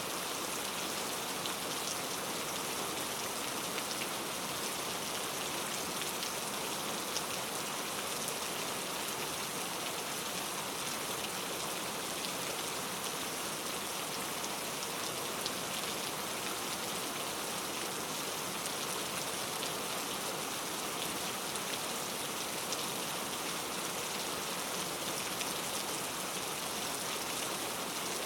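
Steady rain falling: an even hiss with scattered small drop ticks, and no thunder.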